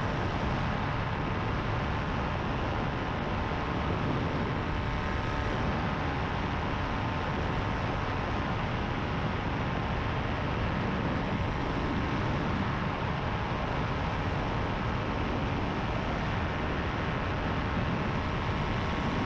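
Power2Fly RS paramotor's engine and propeller running at steady cruise throttle in flight, a constant drone with rushing air.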